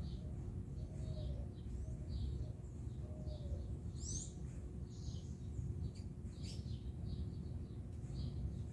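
Small birds chirping: many short, high chirps scattered throughout, with one quick rising call about four seconds in, over a steady low rumble.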